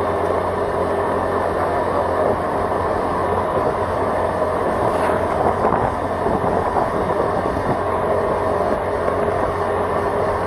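Steady engine and road noise from a moving vehicle, an even rumble with no change in pace.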